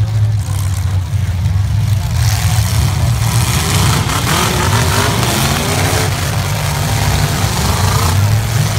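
Demolition derby cars' engines running and revving together as a loud, steady low rumble. From about three seconds in, spectators' voices rise over it.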